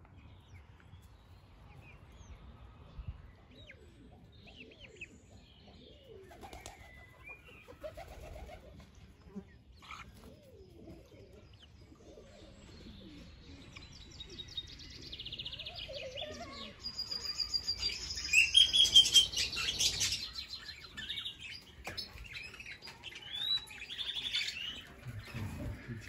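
Birds calling: faint low calls at first, then from about halfway through, loud high-pitched chirping and rapid trills from small songbirds, loudest a little after two-thirds of the way in.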